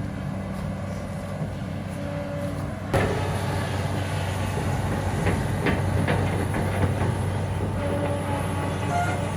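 A heavy engine running steadily with a low hum. It grows suddenly louder about three seconds in, with scattered knocks and clanks over it.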